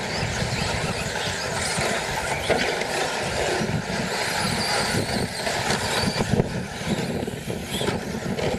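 Brushless electric short course RC trucks racing on a dirt track, their motors giving faint high whines over the tyre and track noise, with wind gusting on the microphone.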